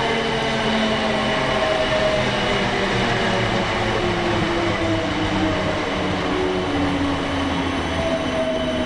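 A South Western Railway passenger train running close by: a steady, loud rumble of wheels on rail with several humming tones that slowly shift in pitch.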